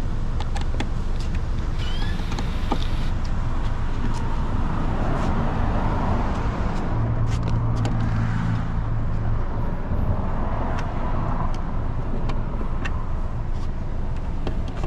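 Steady vehicle rumble with scattered clicks and knocks, and a short low hum about halfway through.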